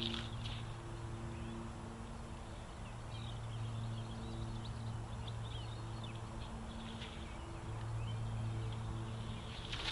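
A distant engine drones low and steady, swelling and fading a few times, with scattered bird chirps over it.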